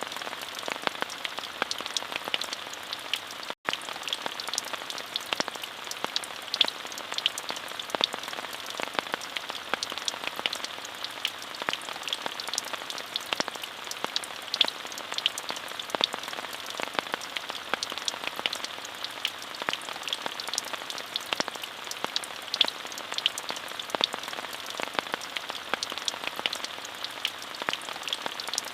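Steady rain, an even hiss thick with the ticks of separate drops. About three and a half seconds in, the sound cuts out for a split second.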